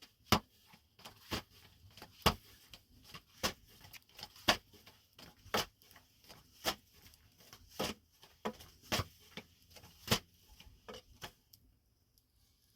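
Sharp knocks or taps repeating at a steady pace of about one a second, with fainter taps between them, stopping shortly before the end.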